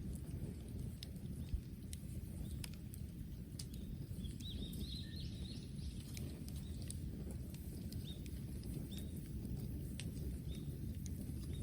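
Bonfire of bamboo and wood crackling, with scattered sharp pops and one louder pop about a second and a half in, over a low steady rumble.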